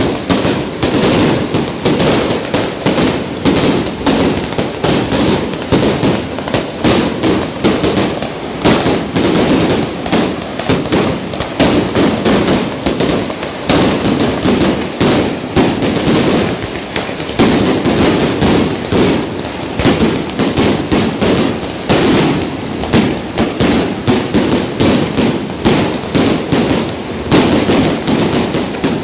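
Strings of firecrackers going off in a dense, unbroken crackle of rapid sharp bangs.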